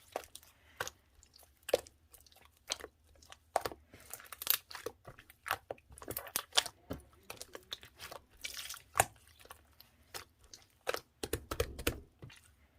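Clear slime being handled, giving irregular sharp clicks and pops with a few longer wet, hissy squishes.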